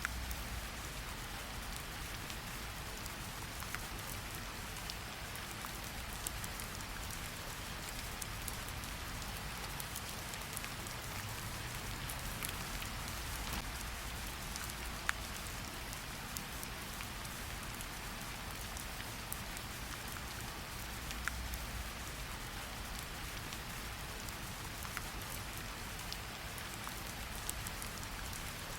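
Wood fire crackling in a fireplace, with scattered small pops and a few sharper snaps, over a steady rain hiss.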